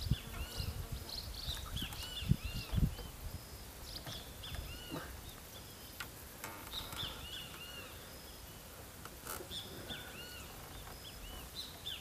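Wild birds calling in short, repeated arched chirps over outdoor ambience, with a few low thumps in the first three seconds.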